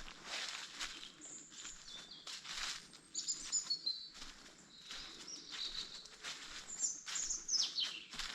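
Footsteps crunching through forest floor litter about once a second, with small birds chirping and singing high above them. A series of quick downward-sliding bird calls comes near the end.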